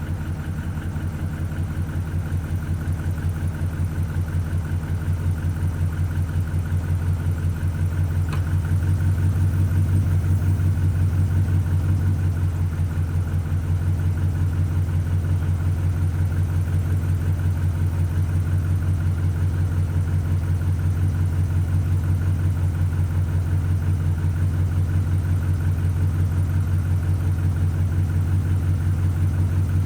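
A 2011 pickup's V8 engine idling steadily while misfiring on cylinder 7, whose injector wire is unplugged for a test-light check. The engine note rises a little about ten seconds in.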